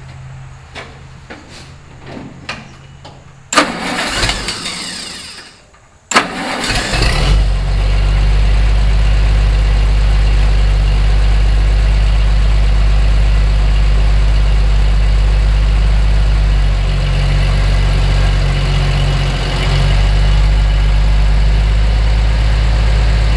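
Oliver 1550 gasoline tractor engine starting about six seconds in, after a loud burst of cranking, then running steadily. It cuts off right at the end.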